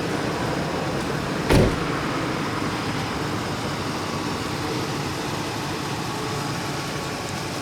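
Steady vehicle noise with one heavy thump about a second and a half in.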